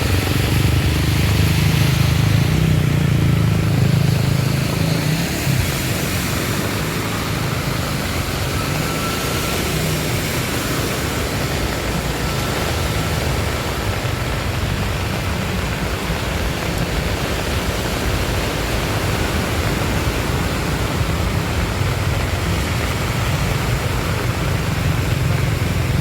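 Motorcycles running through deep floodwater in heavy rain, the steady hiss of rain and water under a low engine rumble that swells in the first few seconds and again near the end.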